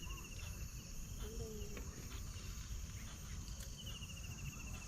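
Insects chirring steadily in the background. A short, slightly falling pulsed trill comes twice, at the start and about four seconds in, over a low rumble.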